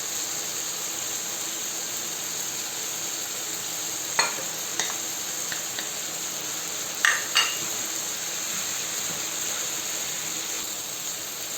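Pan of fried peppers and cooked-down tomatoes sizzling steadily in oil as parsley and minced garlic go in. A few light knocks of a utensil against the pan come about 4 and 7 seconds in.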